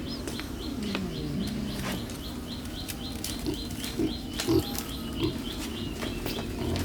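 A bird chirping, short high notes repeated about three times a second, over a steady low hum. A few short, low sounds come through in the middle.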